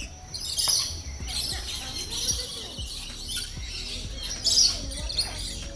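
Many birds chirping and calling at once, a dense overlapping chorus of high chirps, louder about a second in and again near the end.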